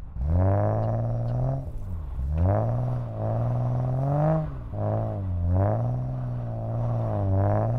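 E34 BMW 5 Series engine and exhaust heard from inside the cabin, revs climbing and then dropping sharply four times as the throttle is worked on and off.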